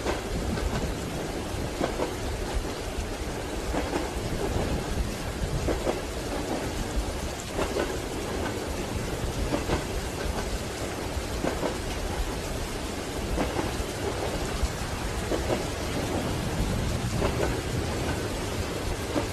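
Steady rain with a low rumble and the clack of train wheels over rail joints, repeating about every two seconds.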